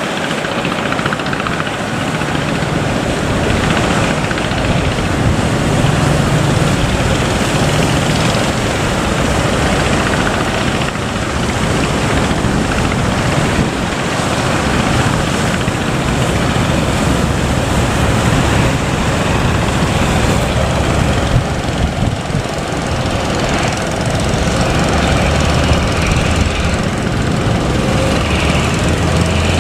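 Fishing boat engines running steadily, under a continuous wash of noise.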